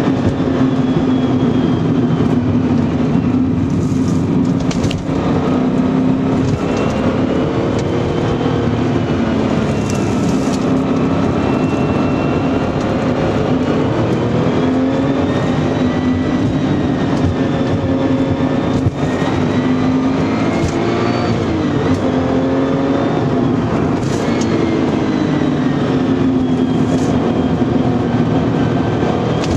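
Porsche 993 Turbo S's twin-turbo air-cooled flat-six engine heard from inside the cabin while driving, its pitch rising and falling repeatedly as it accelerates and eases off.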